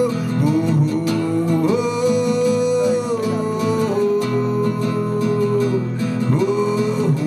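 A song with guitar accompaniment, a voice holding long notes that slide from one pitch to the next between sung lines.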